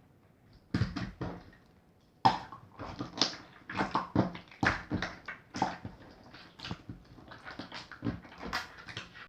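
Clear water jelly slime being squeezed and pressed by hand, making a rapid, irregular run of short wet squelches and sticky clicks. A few come at first, then after a short pause they come thick and fast.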